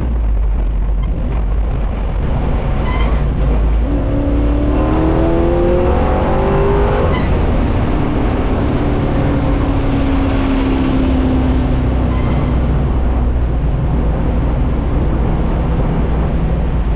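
Carbureted E85 small-block Chevy V8 in a 1964 Buick Special, heard from inside the cabin while driving. Over a steady low rumble the engine revs up about four seconds in, then settles into a held drone that falls slowly.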